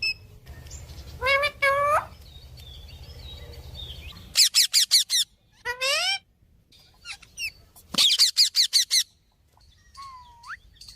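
Pet parrot calling: short calls that rise in pitch, a few on their own and two quick runs of about five and seven in a row, then a thin rising whistle near the end.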